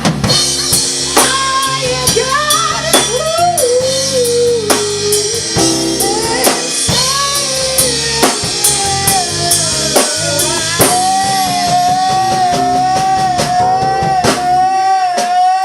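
Live band playing: drum kit with rimshots, bass and guitar under a wavering melody line, which settles into one long held note with vibrato over the last few seconds.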